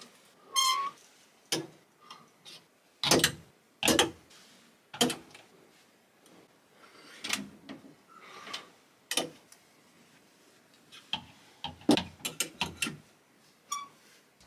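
Clothes hangers clicking and knocking against a metal closet rail as jackets are hung and pushed along it: a run of sharp clicks, thickest about three to five seconds in and again around twelve seconds, with a short ringing scrape near the start and near the end.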